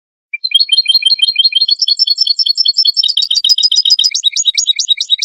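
European goldfinch song: a fast, unbroken run of high twittering notes, starting about half a second in.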